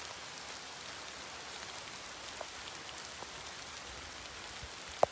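Steady rain falling through a tree canopy, with single drops ticking now and then. A sharp click sounds just before the end.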